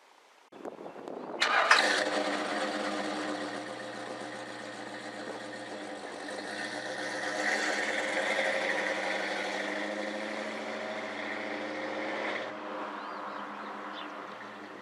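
A 1964 Ford Thunderbird's V8 engine starts about a second and a half in and catches at once. It runs steadily, rises a little in the middle, then stops abruptly about two seconds before the end.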